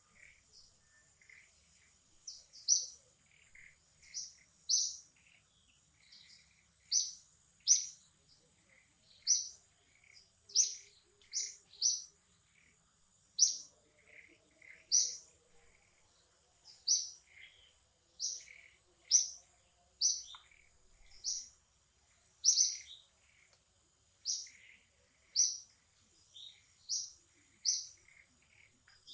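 A bird chirping over and over, short sharp high chirps about once a second, with softer lower calls between them and a steady high whine in the background.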